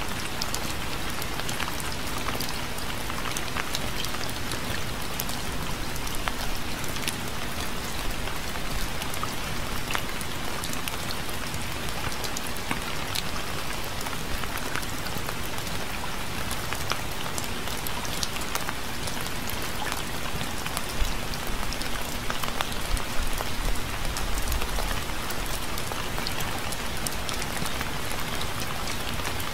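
Steady rain falling, with a constant hiss and many individual drops ticking on a surface. Around 21 to 25 seconds in, a few drops hit louder and a brief low rumble comes through.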